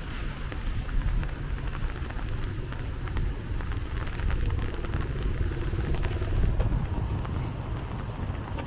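Rainy city street ambience while walking: a steady low rumble with a dense patter of small ticks from rain and footsteps, and a few short high chirps near the end.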